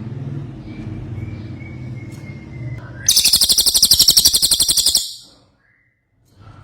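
Cililin singing a loud, very rapid, high-pitched trill for about two seconds, starting about three seconds in and cutting off suddenly. A low steady hum runs underneath before it.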